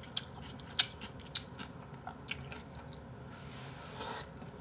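Close-miked chewing of abalone and chicken rice porridge, with wet mouth smacks and a few sharp clicks in the first half. A short breathy rush comes near the end.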